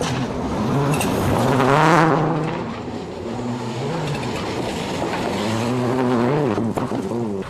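Mitsubishi Lancer WRC05 rally car's turbocharged four-cylinder engine at full effort on a gravel stage, its note climbing and dropping again and again through gear changes, loudest about two seconds in.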